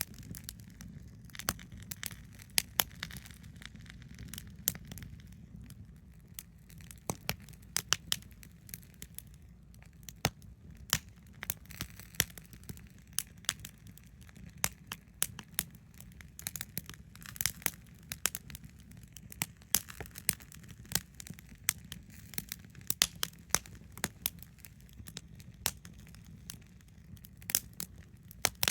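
Wood campfire crackling: irregular sharp pops and snaps, several a second at times, over a low steady rumble.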